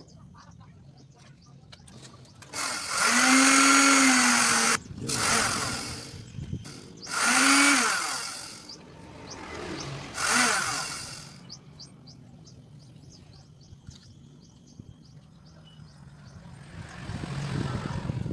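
Homemade drill driven by a sewing-machine motor, run in four short bursts. Its whine rises as it speeds up and falls as it slows, with a hissing whirr while it spins.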